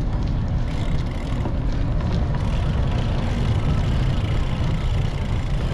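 Wind rushing over a GoPro's microphone while riding a bicycle along a road, with steady road noise underneath.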